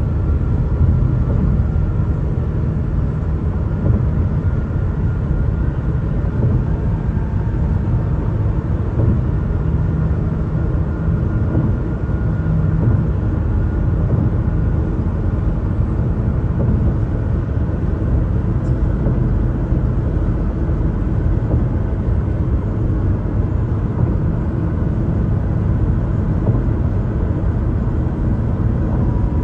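Car tyres running on bridge pavement, making a steady low road rumble with a faint whine above it.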